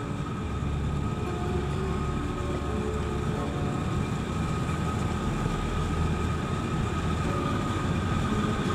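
Home-built metal-melting forge furnace running: a steady, even roar with a low rumble and a faint constant whine.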